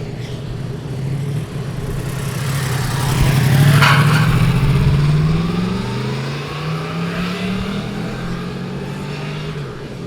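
Yamaha MT-10's crossplane inline-four accelerating past. Its engine note climbs in pitch and is loudest about four seconds in, then it keeps pulling hard through rising steps of revs as it moves away.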